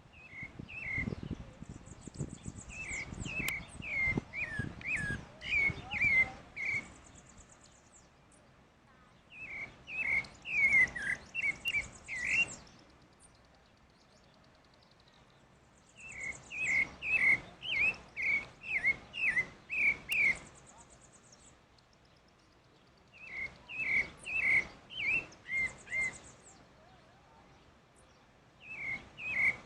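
Pale-breasted thrush (sabiá-barranco, Turdus leucomelas) singing: repeated phrases of clear, warbled whistles, each two to six seconds long, with pauses of two to three seconds between them. Several phrases carry a thin, high twitter over the whistles.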